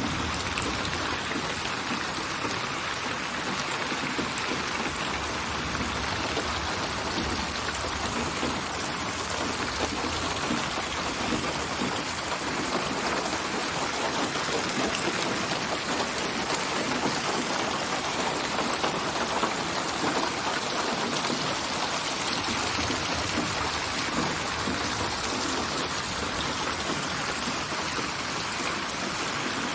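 Steady rainfall: an even hiss of rain with the patter of many drops, unchanging in level.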